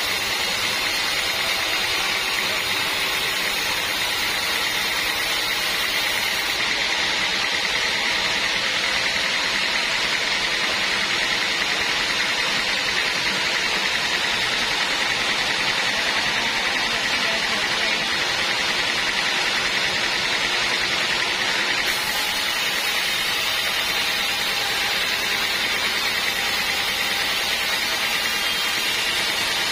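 Band sawmill running steadily, a continuous hiss with a high whine, as it saws a big teak log.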